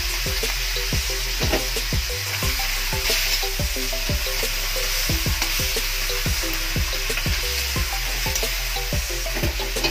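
Chicken livers and gizzards sizzling in a hot metal wok as a metal spatula stirs them, scraping and knocking against the pan about twice a second.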